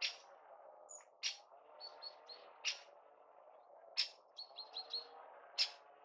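Songbirds chirping: single sharp chirps every second or so, with two quick runs of three or four short high notes, over faint steady background noise.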